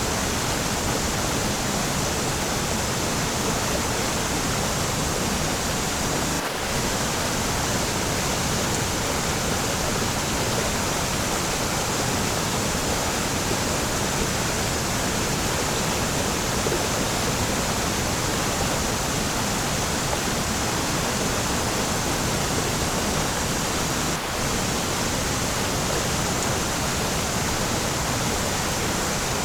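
Waterfall rushing: a steady, even wash of falling water with no change in strength, broken only by two split-second dips.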